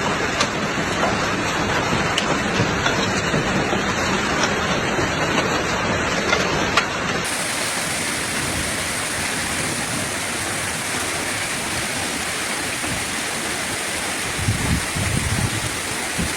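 Heavy downpour with hail, with sharp clicks of stones striking hard surfaces through the first half. About seven seconds in it cuts to a steadier, smoother hiss of heavy rain, with a few low thumps near the end.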